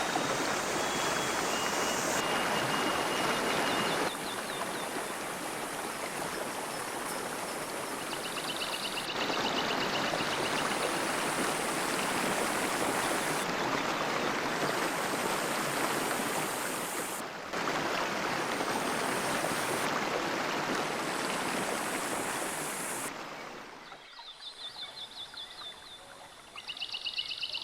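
Stream water rushing over rocks, heard as several shots cut together, each with a steady rush at a slightly different level. Near the end the water fades, leaving a quieter stretch with rapid, high chirping trills.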